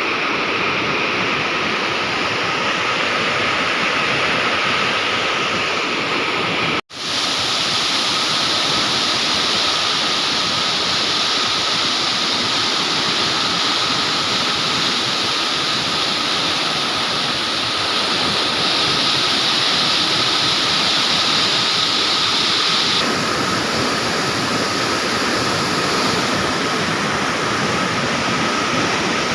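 Floodwater rushing steadily through a river barrage at high flow, a surge of about 60,000 cusecs. The sound cuts out for a split second about seven seconds in.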